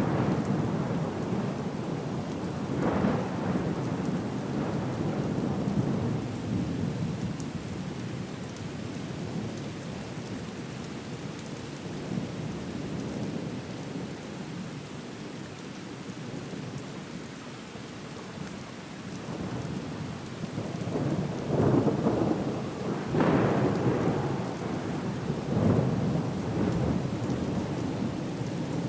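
Thunderstorm ambience: steady rain with rolling thunder rumbles that swell up about a second in and again, louder and several times over, in the last third.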